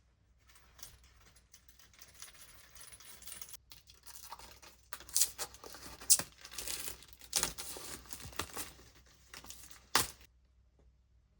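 Close-up rustling and crinkling handling noises, like something being torn or unwrapped, with several sharp snaps; the loudest comes near the end.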